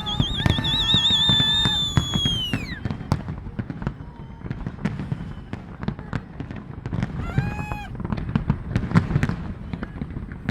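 Fireworks going off in quick succession: dense crackling pops over repeated low booms. A high warbling whistle sounds in the first few seconds, then falls in pitch and stops, and a shorter, lower whistling tone comes about seven seconds in.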